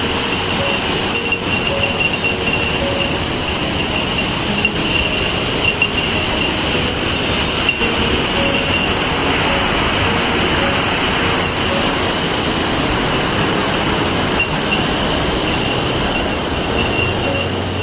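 Waterfall: a large mountain waterfall plunging, a loud, steady rushing roar.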